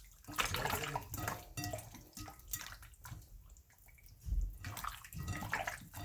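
Water splashing and dripping in uneven spurts, with a couple of low thumps about four and five seconds in.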